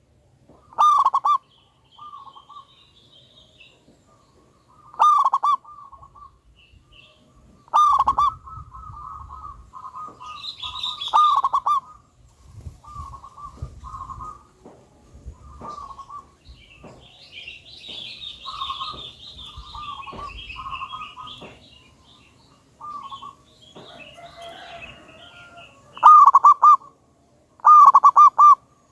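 Zebra dove (perkutut) cooing in repeated short phrases: loud calls about a second in and again around five, eight and eleven seconds, softer coos between, and two loud calls near the end. A higher twittering runs through the middle.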